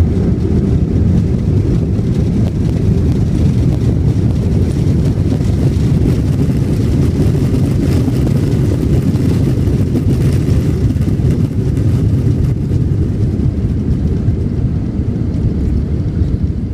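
Jet airliner during its landing, a steady low rumble with no marked rise or fall.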